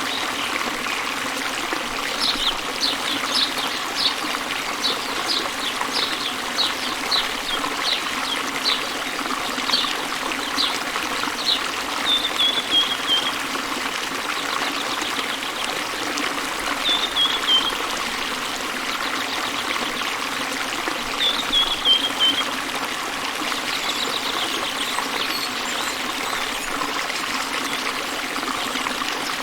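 Waterfall rushing steadily, with a bird singing over it: a run of short, sharp chirps, about two a second, for the first ten seconds or so, then a few brief falling trills.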